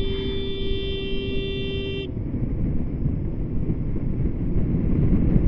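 A vehicle horn held in one steady tone that cuts off suddenly about two seconds in, over steady wind and road noise.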